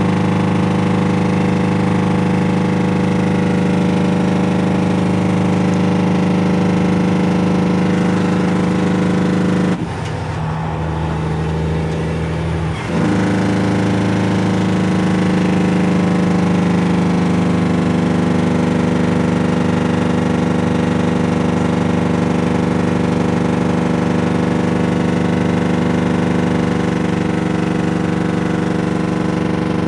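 Cummins N14 diesel truck engine running steadily through straight pipes, a loud, even exhaust note. About ten seconds in, the note breaks up and dips for roughly three seconds before settling back into steady running.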